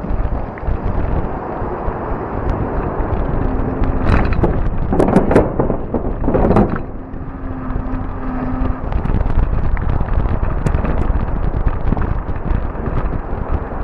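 Fat-tire e-bike riding: steady rumble of tyres and wind buffeting on the microphone, with a burst of loud knocks and rattles from the bike jolting about four to seven seconds in. A faint steady hum comes and goes.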